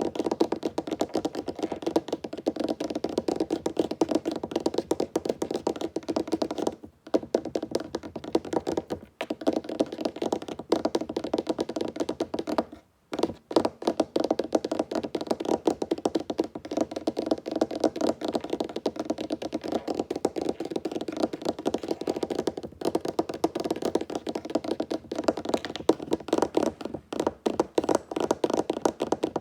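Fingertips tapping fast on a wooden tabletop: a dense, continuous patter of hollow taps, broken by short pauses a few times.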